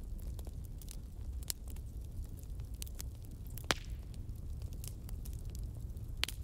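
Fire crackling: scattered sharp pops and snaps over a low steady rumble, with one louder pop a little past halfway and another near the end.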